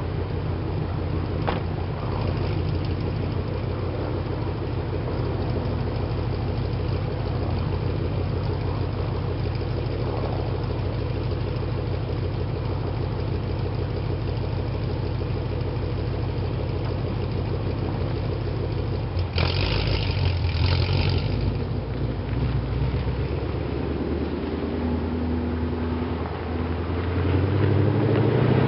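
2017 Mustang GT's 5.0 V8 sounding through BBK headers and a 3-inch MBRP cat-back exhaust, running at a steady low note. About two-thirds in there is a brief louder burst, and near the end the engine note rises and grows louder.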